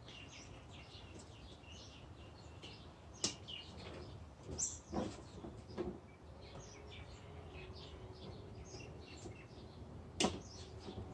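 Birds chirping faintly in the background. A few sharp clicks and knocks from parts being handled stand out, as a connector is plugged back in: one about three seconds in, two around five to six seconds, and one near the end.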